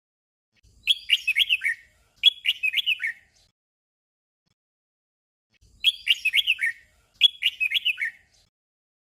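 Red-whiskered bulbul singing a short phrase of quick falling whistled notes, sung twice back to back (a 'double'), then the doubled phrase again after a pause of about two and a half seconds.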